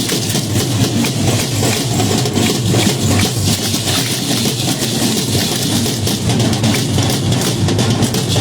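Drum-led dance music recorded loud and distorted, a dense steady wash with a constant patter of small hits.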